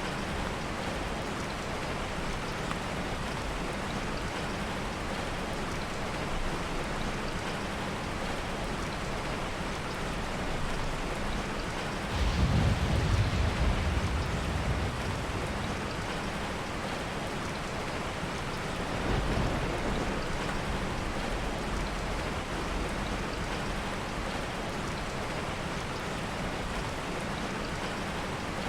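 Steady heavy rain, with a low rumble of thunder a little before halfway through and a softer one about two-thirds of the way in.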